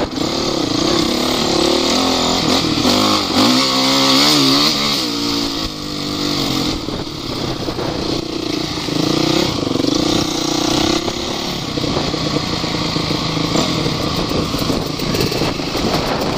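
Off-road motorcycle engine running under load, the revs rising and falling sharply between about three and five seconds in.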